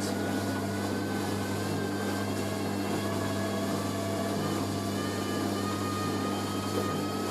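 Hoover A3060 Electronic 1100 washing machine ramping up into its final spin: a steady motor hum with a faint whine that climbs slowly in pitch as the drum gathers speed.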